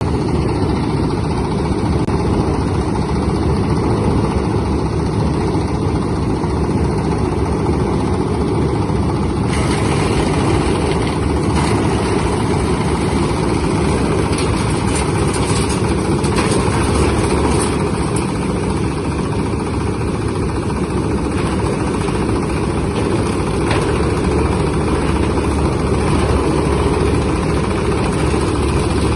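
Coconut husk decorticator (cocopeat and cocofiber separating machine) running steadily with a loud motor drone. From about ten seconds in, a harsher hiss with scattered crackles joins the drone.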